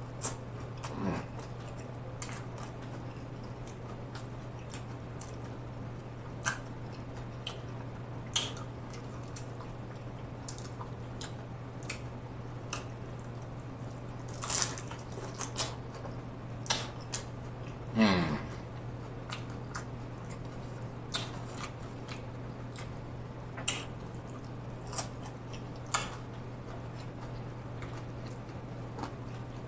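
Close-up chewing and crunching of hard-shell tacos: irregular crisp crunches and wet mouth sounds over a steady low hum. About eighteen seconds in, a brief sound slides down in pitch, the loudest moment.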